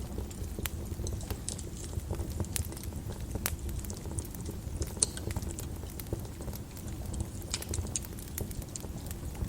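Wood fire crackling in a fireplace: irregular sharp pops and snaps over a low rumble of the flames, with one louder pop about five seconds in.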